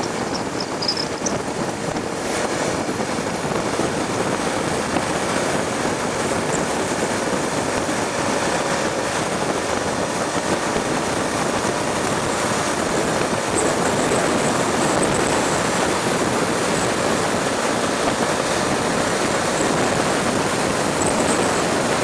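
Steady rush of wind and road noise from a Honda Tornado motorcycle ridden at highway speed, its engine running beneath the noise. The noise grows slightly louder a little past halfway.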